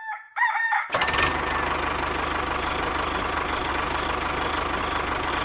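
A small engine starts up about a second in and idles steadily with a fast, even beat. Before it there is a brief pitched sound.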